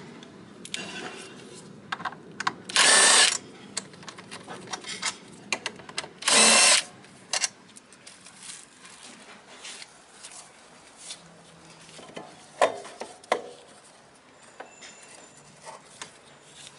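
Power drill or driver run in two short bursts about three and a half seconds apart, with small clicks and knocks of tools being handled in between.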